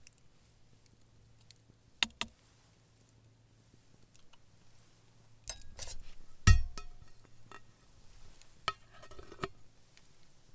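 Camp cookware and utensils being handled: scattered clinks and knocks, the loudest a solid knock a little past halfway with a brief ring after it.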